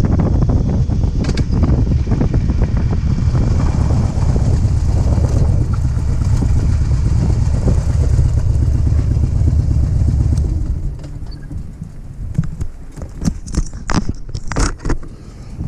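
Motorcycle riding at speed, a loud, steady low rumble of engine and wind noise. About ten and a half seconds in it drops off sharply as the bike slows. Several sharp clicks and knocks follow near the end.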